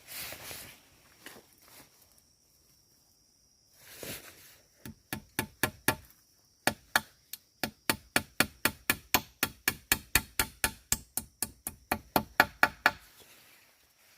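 A tool striking wood in a rapid, even series of sharp knocks, about four a second, starting about five seconds in after some rustling and stopping a second before the end, as in chopping or hammering at a campsite.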